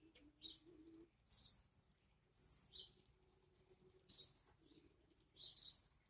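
Wild songbirds chirping: short, high calls every second or so, the loudest about a second and a half in, over a quiet background with a faint low hum in the first second.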